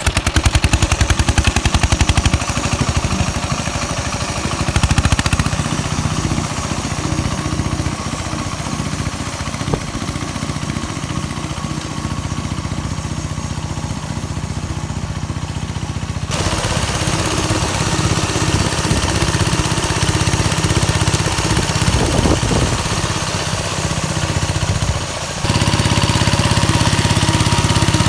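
Engine of a home-built mini-tractor converted from a walk-behind tractor, running steadily with an even firing beat while it drives a rotary tiller. The sound changes abruptly twice, about 16 and 25 seconds in.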